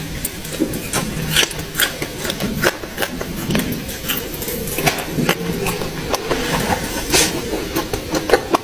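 Close-miked eating sounds of someone biting and chewing cooked snake: irregular wet clicks, smacks and crunches, with a louder burst of them about seven seconds in, over a steady low hum.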